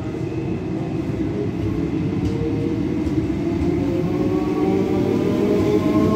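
EMU electric local train pulling out of a station platform and speeding up. A whine from the traction motors rises steadily in pitch over the rumble of the wheels, and grows slowly louder.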